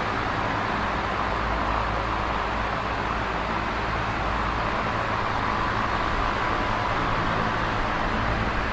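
Electric fan running steadily: an even rush of moving air with a faint low hum from the motor.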